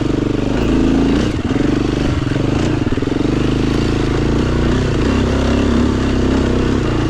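Dirt bike engine running under changing throttle on a single-track trail, its pitch rising and falling as the rider opens and closes the throttle, with a couple of brief knocks along the way.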